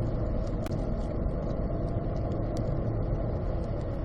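Corvette engine running with road noise, heard steadily from inside the cabin while lapping the track.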